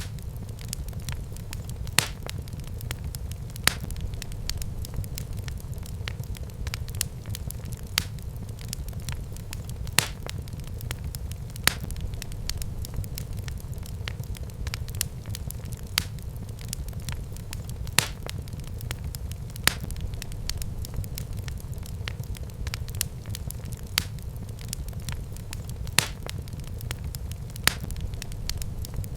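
Wood fire burning in a fireplace, crackling steadily over a low rumble, with sharp louder pops every couple of seconds.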